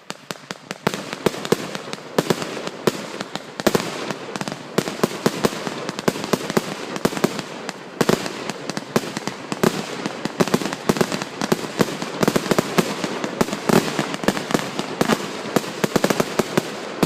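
Fireworks going off in a dense, continuous barrage of sharp cracks and bangs, many a second, over a crackling haze. It builds a little in the first couple of seconds.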